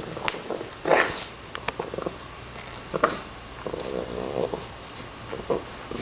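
A pet animal's sounds: short noisy bursts about a second in, at three seconds and near the end, among scattered clicks.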